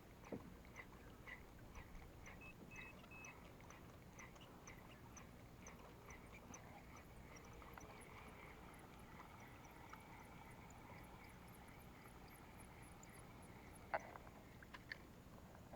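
Near silence, with faint chirps repeating evenly about twice a second and a couple of soft knocks near the end.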